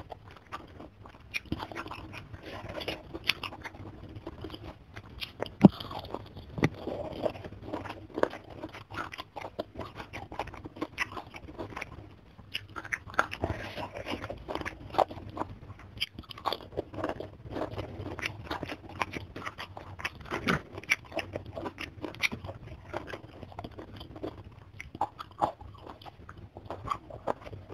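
Close-miked eating: crisp, irregular crunching and chewing of mouthfuls of fried chicken skin in chili sambal with rice, with a sharper crunch about six seconds in.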